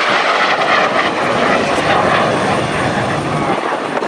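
Aircraft engine noise as an aircraft flies past: a loud, dense noise with a deeper rumble that swells in the middle and fades shortly before the end.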